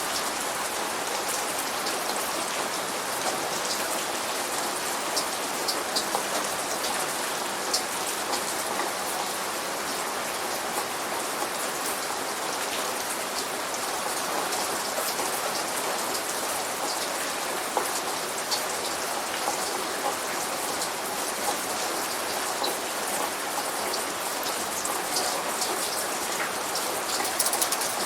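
Steady light rain, with many individual drops ticking sharply against an even hiss. No thunder is heard.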